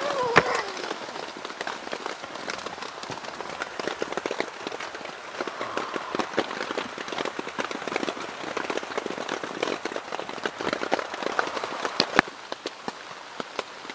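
Steady rain pattering on a tent, a dense run of small drop strikes heard from inside. A short sound that glides in pitch comes right at the start, and a single sharp tick about twelve seconds in, after which the rain is slightly softer.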